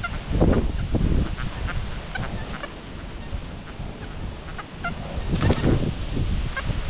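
Geese honking in scattered short calls, over heavy wind rumbling on the microphone.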